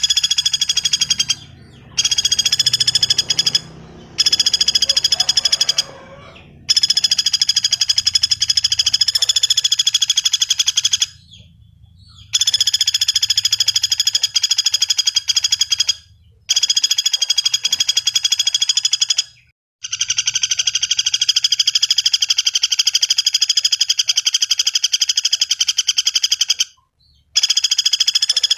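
Common flameback woodpecker giving fast rattling trills. Each trill lasts a few seconds, with brief pauses between them.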